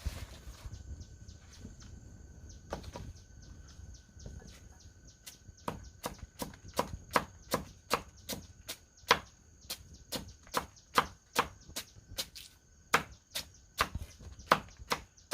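A blade chopping with quick, even strokes, about three a second, starting about five seconds in after a few softer knocks.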